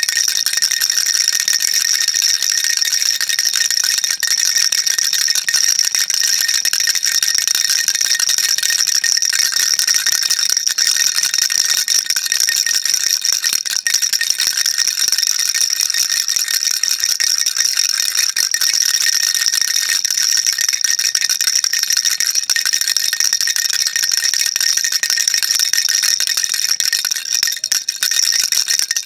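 Baby rattle shaken continuously, a dense, steady rattle of small beads inside, with no pauses.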